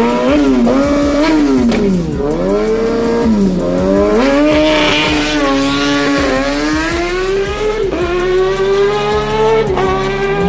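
High-revving sport-bike engine at racing speed, its pitch dropping and jumping back up several times as it shifts and revs, then one long climb in revs as it accelerates hard.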